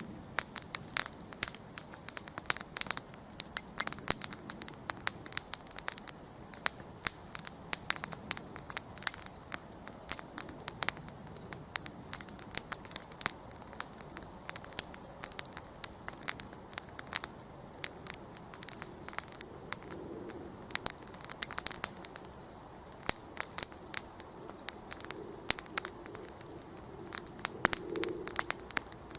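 Wood campfire burning, crackling with frequent sharp pops and snaps over a soft steady hiss.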